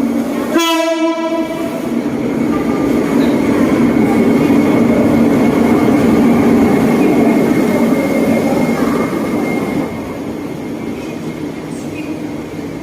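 Lao–China Railway ordinary passenger train running at speed: a loud steady rumble of wheels on rail with a thin steady whine above it. A short horn blast sounds about half a second in, and the rumble eases somewhat near the ten-second mark.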